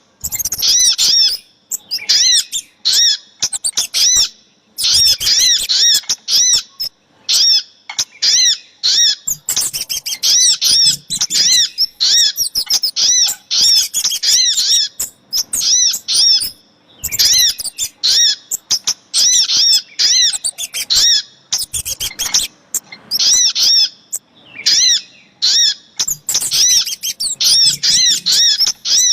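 Bird-lure recording mixing sogok ontong and kemade calls: bursts of rapid, high, repeated chirping notes with short breaks between the bursts.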